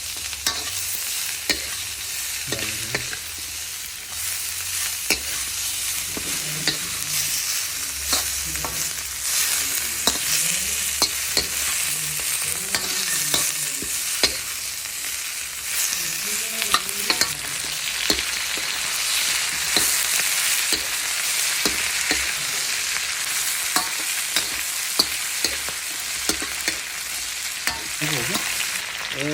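Food sizzling steadily as it fries in a hot pan, stirred with a utensil that clicks and scrapes against the pan many times.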